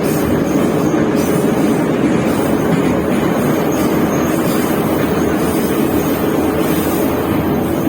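Moscow Metro train running through the tunnel between stations, heard from inside the carriage: a steady, loud rumble of wheels on rails.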